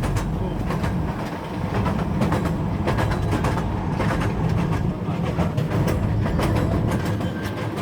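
Train running along rails: a steady rumble with irregular clicking and clacking of the wheels over the track.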